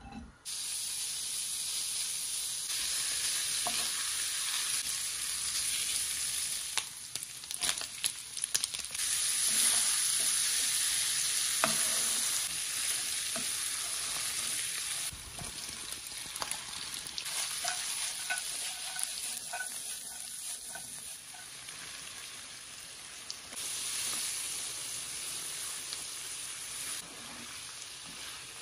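Diced pancetta, and later sliced mushrooms with it, sizzling in a nonstick frying pan, stirred with a spatula that clicks and scrapes against the pan. The sizzle jumps abruptly in level several times.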